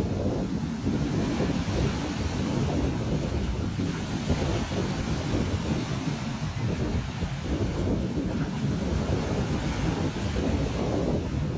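Ocean waves washing onto a beach in a steady rush, with wind buffeting the microphone and adding a heavy low rumble.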